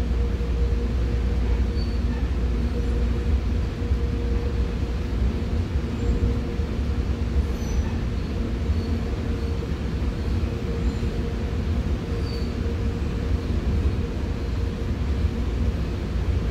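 Commuter train rolling along, heard from inside a passenger coach: a steady low rumble with a faint, even hum.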